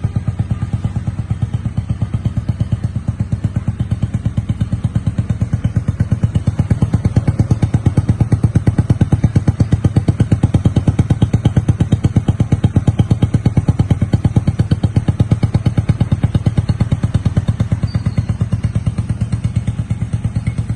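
Small engine of a restored 1979 Honda motorcycle idling steadily with an even, rapid firing beat, a little louder through the middle.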